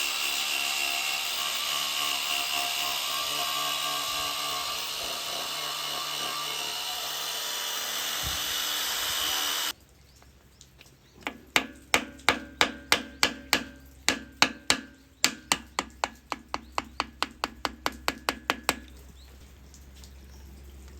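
A power tool runs steadily with a whining tone. It cuts off suddenly, and then a fast run of metal hammer strikes follows, about three to four blows a second, each with a short ring.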